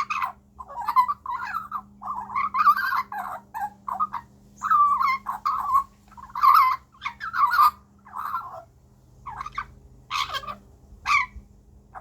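Baby Australian magpie calling: a string of a dozen or so short calls that waver in pitch, with brief gaps between them, growing sparser in the last few seconds.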